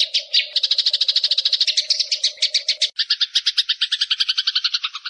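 Eurasian tree sparrows chattering in a fast, harsh run of notes, about ten a second, as they fight. About three seconds in the chatter drops lower and a faint steady hum underneath stops.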